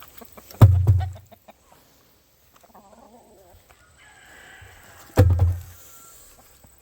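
Chickens clucking, with two loud, sudden thumps: one about half a second in, another about five seconds in.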